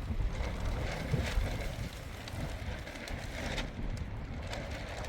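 Strong wind gusting and buffeting the microphone, with a few light knocks.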